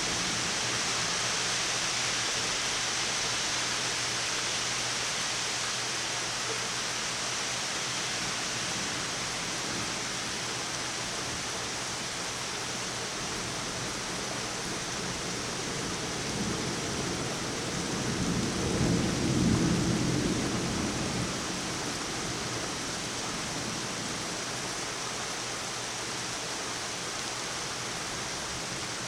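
Steady heavy rain hissing, with a roll of thunder rumbling up past halfway, peaking and fading over about four seconds.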